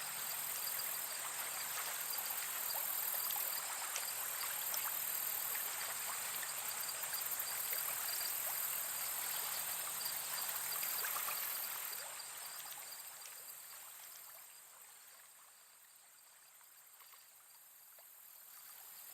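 Nature ambience: running water with a steady high insect drone, fading down about two-thirds of the way through and slowly swelling back.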